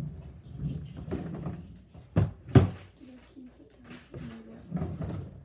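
Handling noises, with scattered light clicks and two sharp knocks about two seconds in, half a second apart, as a slime container is handled.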